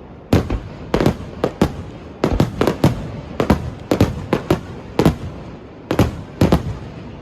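Fireworks going off: a rapid, irregular string of sharp bangs, often two or three in quick succession, each with a short echoing tail.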